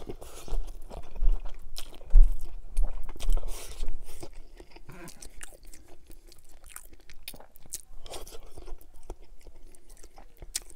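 Close-miked chewing of a mouthful of stir-fried noodles. It is louder for the first four seconds or so as the noodles are drawn in and chewed, then goes on as quieter wet chewing with small clicks.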